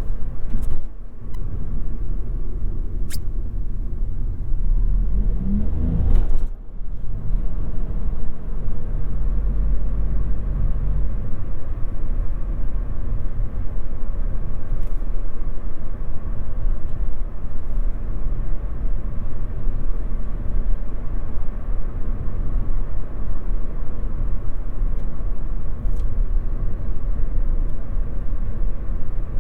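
A Toyota Yaris 1.5 Hybrid driving, heard from inside the cabin: a steady low road and tyre rumble. About five seconds in a tone rises in pitch, the sound dips briefly, then a steady hum runs for a few seconds before only the rumble is left.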